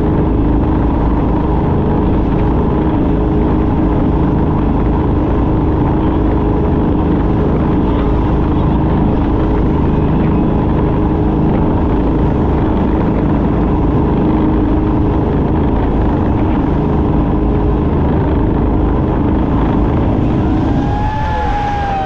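Speedboat engine running steadily at speed, with wind and water rushing. Near the end the engine's steady tone drops away and a raised voice rises over the noise.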